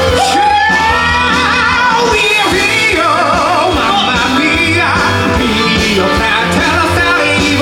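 Live musical-theatre song: a singer holds long notes with strong vibrato over band accompaniment with a steady bass line.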